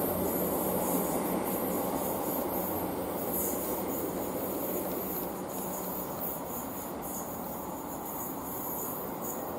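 Northern Ireland Railways Class 3000 diesel multiple unit running away from the listener round a curve, its steady engine and wheel rumble slowly fading, with a steady high-pitched hiss above it.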